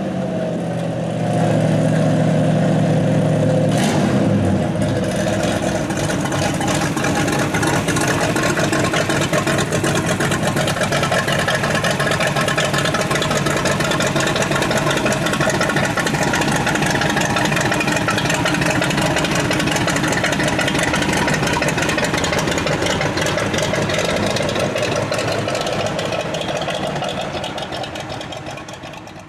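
Old engine running: a steady idle for the first few seconds, then a rougher, rapidly pulsing run that fades out near the end.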